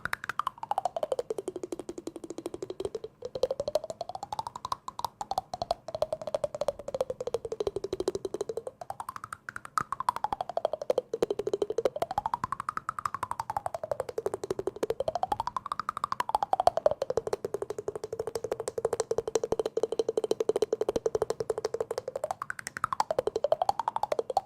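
Very fast, even tapping or clicking, many strikes a second, with a resonant tone that slowly slides up and down in pitch and holds steady for a few seconds near the end.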